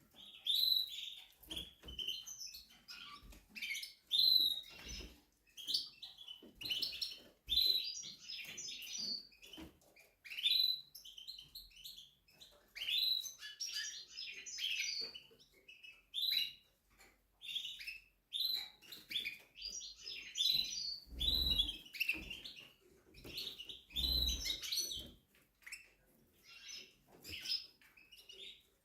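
Spanish Timbrado canary singing: a long run of rolling trills and warbled phrases with short pauses between them. There are two dull knocks about two-thirds of the way through.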